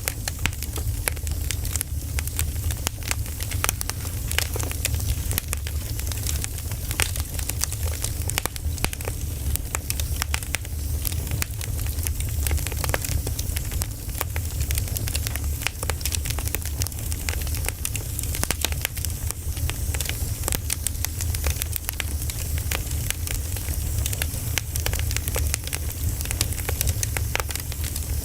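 Wood fire burning: logs crackling and popping in quick irregular snaps over a low steady rumble.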